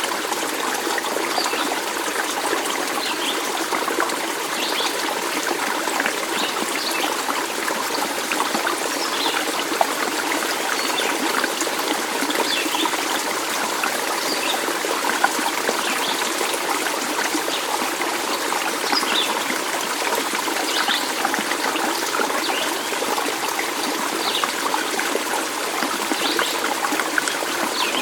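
Running stream water trickling steadily, with many short, bright splashes scattered throughout.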